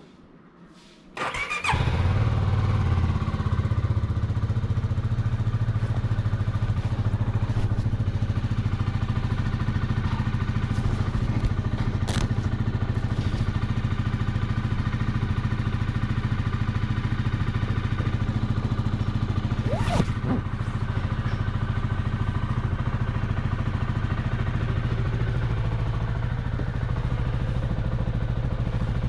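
CFMoto 250NK motorcycle engine started about a second in, then idling steadily through its stock exhaust.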